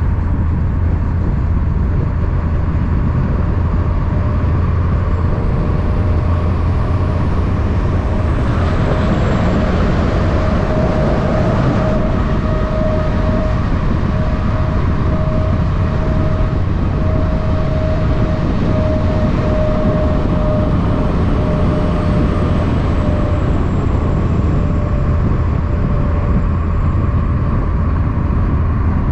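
Steady highway traffic with a heavy low rumble. A vehicle passes, adding a mid-pitched drone that comes in about ten seconds in and fades out a little after twenty seconds.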